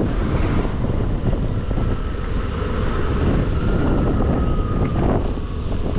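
Scooter engine running while riding, under a steady low rumble of wind on the microphone. A faint steady whine rises and holds from about a second and a half in until near the end.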